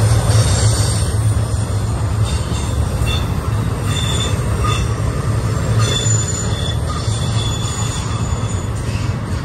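BNSF intermodal freight cars rolling past close by with a heavy, steady rumble. Thin high wheel squeals come and go, typical of wheel flanges grinding on a curve.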